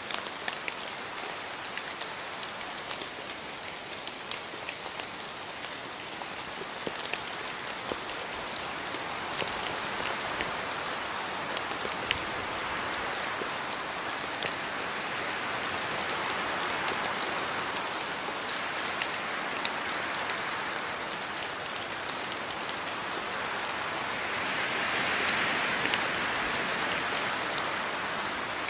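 Steady rain falling in a yard, with many sharp drop ticks over an even hiss. It swells several times, loudest a little before the end.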